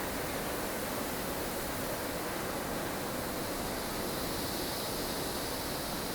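Blustery snowstorm wind ambience: a steady, even rush of wind noise with no gusting peaks or distinct events, growing a little brighter and hissier about four seconds in.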